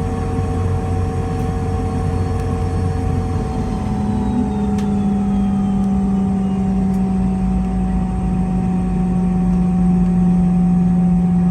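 Boeing 717-200's rear-mounted Rolls-Royce BR715 turbofan engines running, heard from inside the cabin: a steady hum and whine. About three and a half seconds in, the tones shift, with a low hum dropping away, a steadier low drone taking over, and a fainter whine gliding down in pitch.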